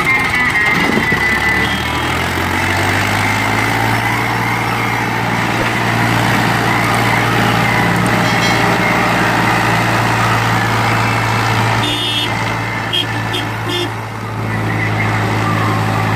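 Diesel tractor engine running steadily while pulling a heavily loaded sugarcane trolley, a low even drone that settles in about two seconds in, with a short bit of higher clatter near the end.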